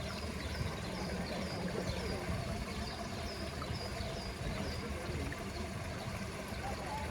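Evening poolside ambience: steady trickling water, with short high chirps repeating about twice a second.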